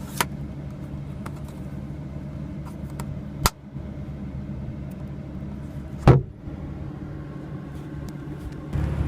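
Three sharp plastic clicks, near the start, about three and a half seconds in and about six seconds in, from the sun visor's vanity mirror cover being snapped open and shut, over a steady low hum inside the car.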